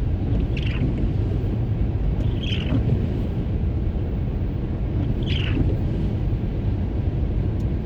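Car driving along a highway: a steady low rumble of road and engine noise, with three brief high chirps at about half a second, two and a half seconds and five and a half seconds in.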